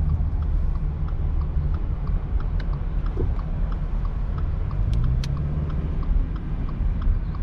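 Vehicle driving: steady engine and road rumble, with the engine pitch rising about five seconds in as it speeds up, and a faint regular ticking.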